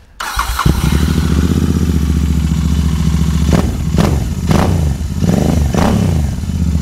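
Royal Enfield Continental GT 650's parallel-twin engine, fitted with an aftermarket Akrapovič exhaust, being started: a brief crank, catching under a second in, then idling with a deep bass note. Several quick throttle blips in the middle, each rising and falling back to idle.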